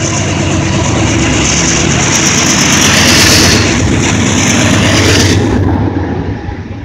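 Norfolk Southern autorack freight train passing at about 45 mph, a steady rumble of wheels on the rails with a hissing roar that swells to a peak about halfway through and drops off near the end.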